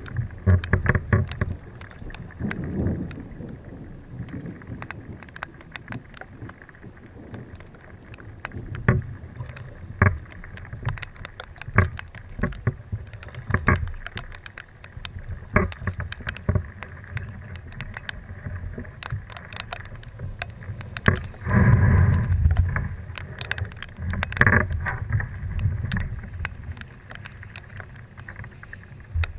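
A small boat being paddled: irregular paddle strokes and water splashes with scattered knocks against the hull, over low wind rumble on the microphone. A louder run of splashing comes about two-thirds of the way through.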